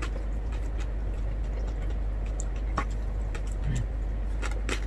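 Close-up mouth sounds of someone chewing roast pork, with scattered wet clicks and smacks, several of them near the end. A steady low hum runs underneath.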